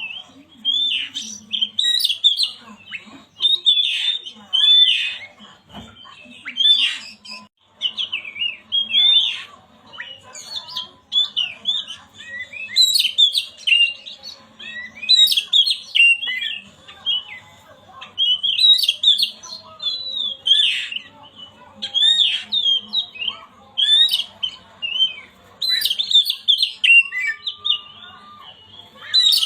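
Oriental magpie-robin (kacer) singing in a continuous run of short, quick, varied chirping and whistled phrases, a lure song played to set off silent kacers.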